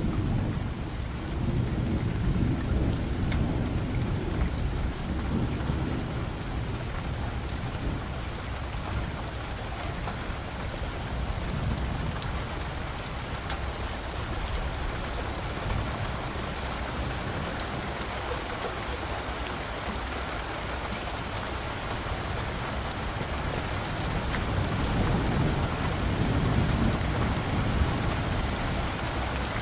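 Steady rain falling, with sharp drop ticks through it. Low, distant thunder rumbles over the first few seconds and swells again near the end.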